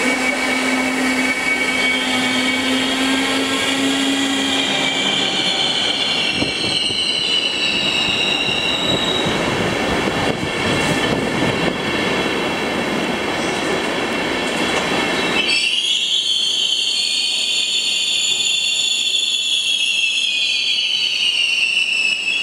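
ÖBB Railjet passenger train arriving and braking, with several high squealing tones from brakes and wheels over the rumble of its rolling. About two-thirds of the way through, the rumble drops away suddenly as the train comes to a stop, and the high squeal carries on.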